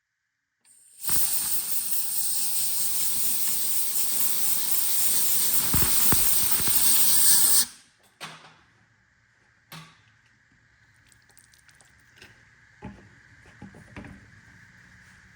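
A loud, steady hiss begins about a second in, lasts about six and a half seconds and cuts off suddenly, followed by a few light clicks and taps.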